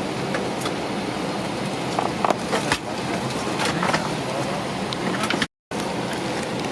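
Steady rushing cabin noise inside an Airbus A320neo airliner, with a few light clicks and knocks about two to four seconds in. The sound cuts out completely for a moment near the end.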